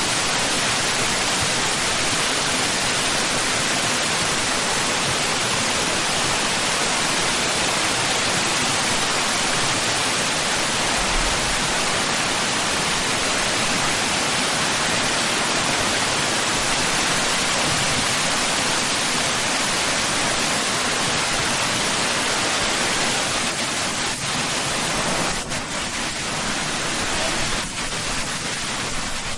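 Waterfall rushing: a steady, loud, even roar of falling water, easing slightly near the end.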